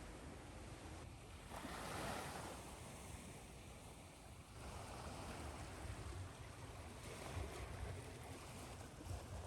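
Ocean waves washing onto a shore over a steady hiss of white noise, the surf swelling louder about one and a half seconds in and again near the middle.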